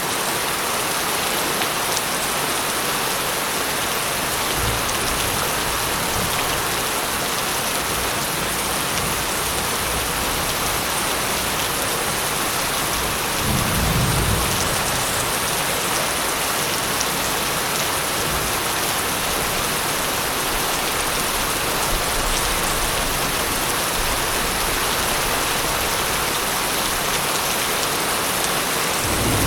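Steady heavy rain hissing, with low rolls of thunder underneath, the loudest rumble about halfway through.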